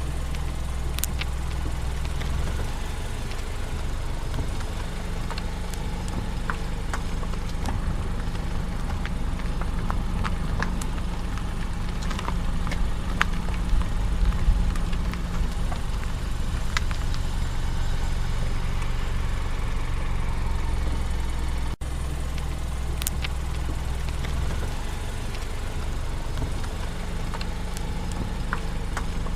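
ISUZU KV100 truck's diesel engine running steadily, a low drone whose pitch steps a few times, with scattered light clicks and rattles. The sound breaks off for an instant about 22 seconds in.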